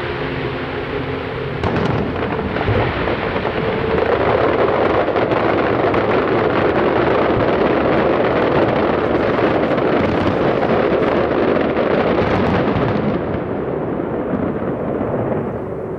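A fireworks barrage: shell bursts and crackles fired in quick succession, merging into a continuous rumble. It grows loudest a few seconds in and dies down near the end.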